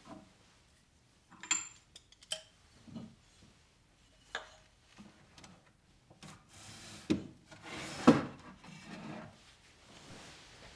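Household objects being handled by hand: a few light knocks and clinks as things are picked up and set down, with a stretch of rubbing and sliding and the loudest knock about eight seconds in.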